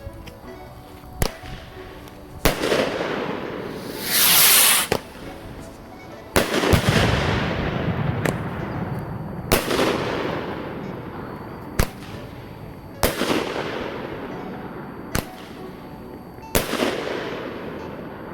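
Fireworks going off: about eight sharp bangs spread unevenly across the stretch. Several are followed by a long rolling echo that fades over a few seconds. A hiss lasting about a second comes about four seconds in.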